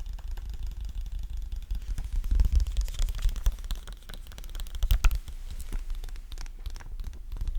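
Sticky peeling and crackling close to the microphone, a dense run of small irregular clicks and tearing sounds, with louder peels about a third of the way in and past the middle.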